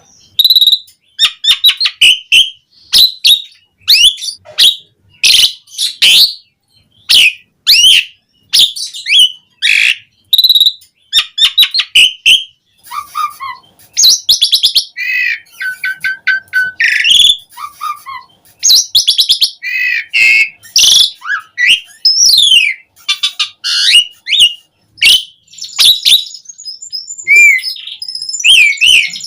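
Asian pied starling singing a long, varied song: rapid chattering and clicking notes mixed with sweeping whistles and short trills. It is in full, vigorous song with fill-in phrases.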